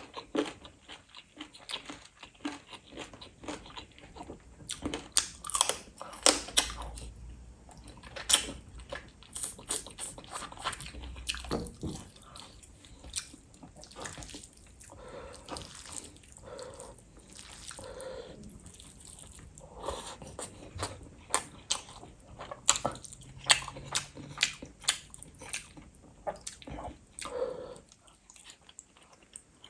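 A person chewing and gnawing chicken drumstick close to the microphone, with frequent sharp, wet mouth clicks and smacks at an uneven pace.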